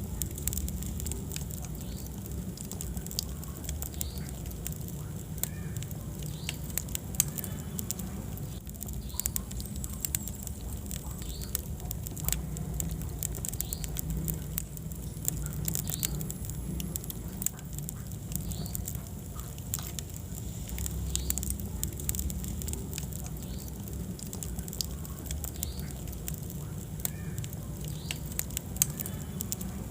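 Wood fire in a fireplace crackling with many small pops and a few louder snaps over a steady low roar, with occasional brief squeaks from the burning logs.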